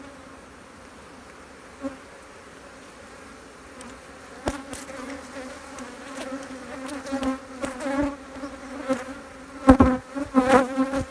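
Honeybees buzzing steadily over an opened hive, a constant hum. From about halfway, sharp knocks and scrapes of wooden hive frames being handled, loudest near the end.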